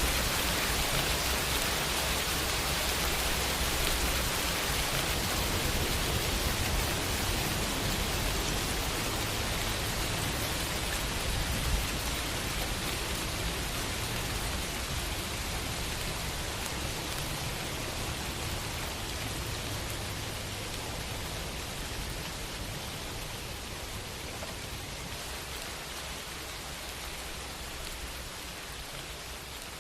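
Steady rain falling on a window, an even wash of patter with a low rumble underneath, easing slowly and growing quieter over the half minute.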